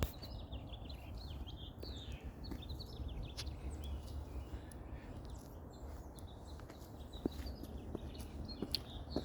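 Small birds chirping in quick, repeated short calls over a steady low rumble, with a few sharp clicks.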